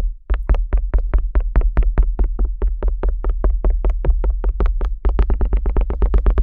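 Stainless steel ear pick stroking rapidly over a binaural microphone's artificial ear flap, about six strokes a second over a deep handling rumble. The strokes come faster and denser after about five seconds.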